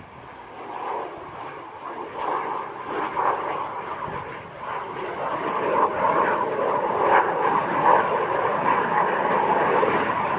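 Saab JAS 39 Gripen fighter's single jet engine, a steady roar that grows louder as the jet approaches.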